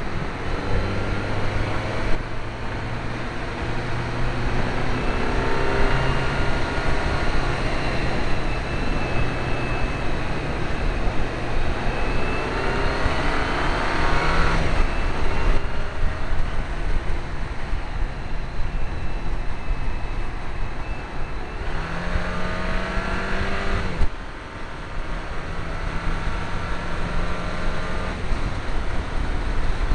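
VW Golf Mk5 GTI's turbocharged 2.0-litre four-cylinder accelerating hard through the gears, its pitch climbing and breaking off at each change, several times. Heavy wind and road noise on the bumper-mounted camera.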